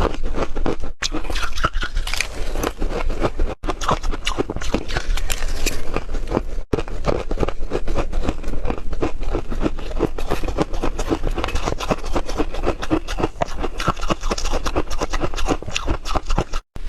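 A person biting and chewing hard, refrozen ice: dense, irregular crunching with many sharp cracks, going on without a break.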